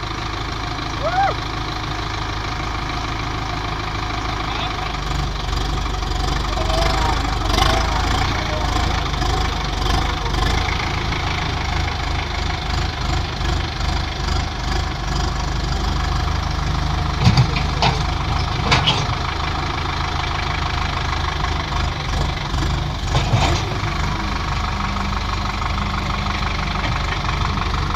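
Tractor diesel engines running hard under load while trying to free a stuck Preet 6049, their low rumble swelling after a few seconds. Several short sharp knocks cut through in the second half.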